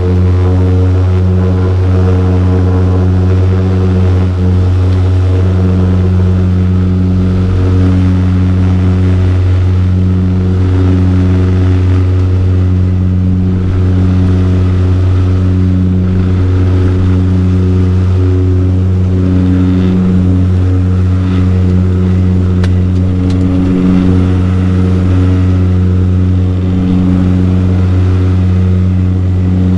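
Saab 340 turboprop engine and propeller at takeoff power, heard inside the cabin beside the propeller: a loud, steady, deep propeller drone with a stack of steady buzzing tones above it.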